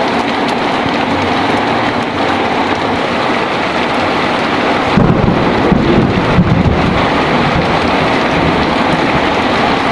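Heavy rain falling steadily, with a sudden low rumble of thunder about halfway through that lasts about two seconds.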